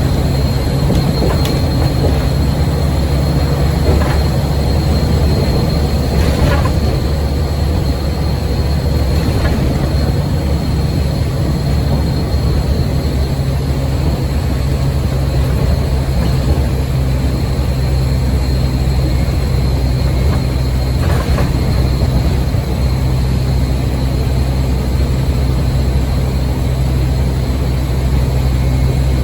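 Scania N230UD OmniCity bus engine running steadily under way, with a high steady turbo whine over the low engine drone. A few sharp knocks or rattles come through now and then.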